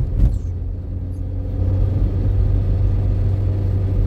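Steady low drone of a car engine running with road noise, with two short knocks right at the start.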